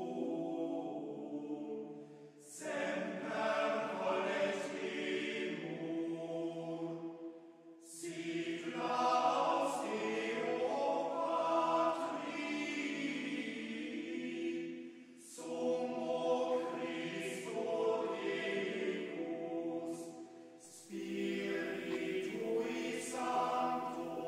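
Background music: a choir singing a slow chant in long, held phrases, each several seconds long with short breaks between them.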